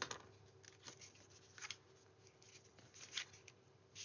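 Faint rubbing strokes of scored card stock being folded and burnished along its folds, a few short scrapes with quiet between.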